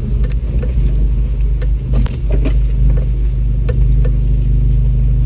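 Off-road vehicle crawling over a steep, rocky trail: a steady low engine drone with scattered knocks and rattles from the rocks and the body.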